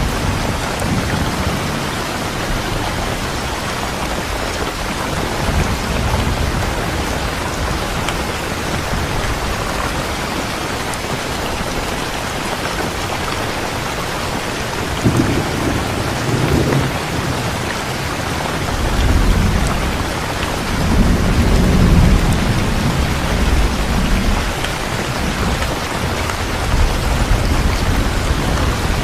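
Steady heavy rain with distant thunder rumbling, the rumbles swelling about halfway through and again toward the last third.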